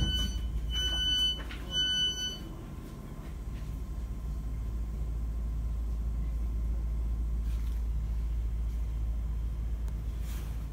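Three high-pitched door warning beeps about a second apart from a Class 465 electric multiple unit, then the steady low rumble of the train, growing a little louder.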